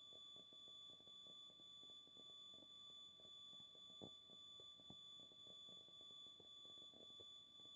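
Near silence: a faint steady high-pitched electronic whine, with faint irregular crackle underneath.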